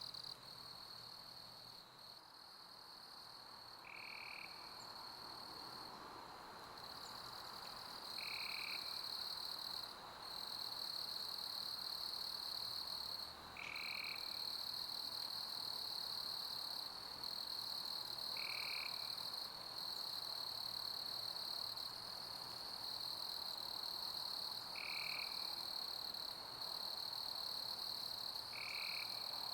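Summer crickets chirping in a steady, high-pitched chorus over a soft hiss of pink noise. A short, lower call comes through about every five seconds.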